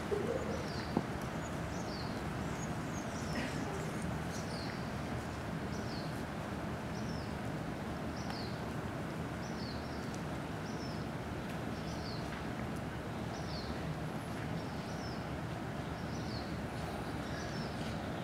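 A bird calling over and over: short, high chirps that each slide downward, about one a second, over a steady hum of outdoor background noise.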